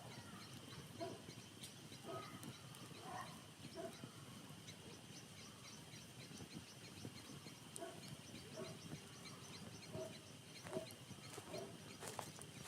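Campfire burning quietly with a few sharp pops. Behind it are a steady, rapid high-pitched chirping and scattered short animal calls.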